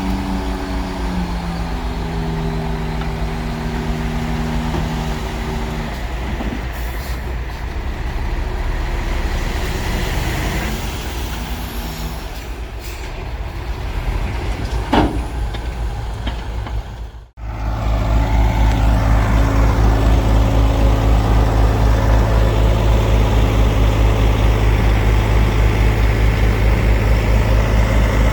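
Heavy diesel engines of earthmoving machinery and dump trucks running, their pitch shifting in the first few seconds, with one short sharp sound about halfway through. After a sudden break about two-thirds in, a louder, steady, low engine idle with an even pulse.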